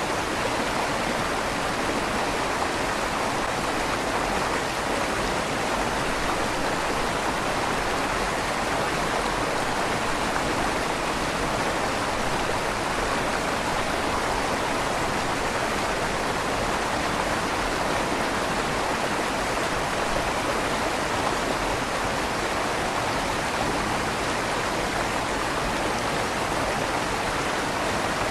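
River water flowing steadily through the tunnel under a stone bridge, a constant even rush with a slight echo off the stone walls.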